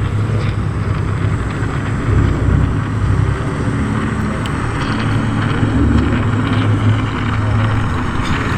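Car engine running at a fairly steady pitch, with a steady hiss of road and wind noise.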